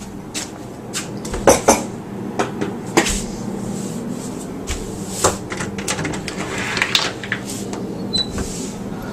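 Irregular knocks and clicks, like a door or cupboard being handled, over a steady low hum.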